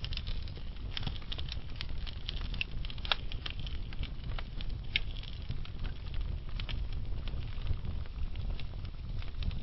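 Wood fire burning slowly in a fireplace, logs crackling with irregular sharp pops over a low steady rumble; the loudest pops come about three and five seconds in.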